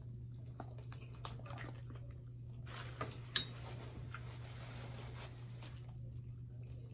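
Close-miked chewing of fried chicken: soft, wet mouth clicks and smacks. About three seconds in, a paper napkin rustles as mouth and hands are wiped. A steady low hum runs underneath.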